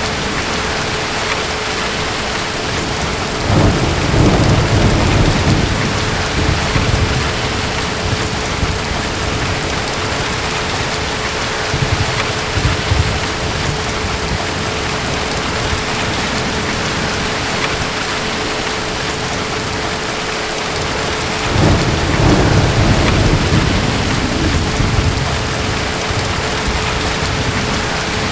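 Steady heavy rain with distant thunder rumbling low twice, once a few seconds in and again about three-quarters of the way through, each rumble lasting several seconds. A faint steady tone sits under the rain.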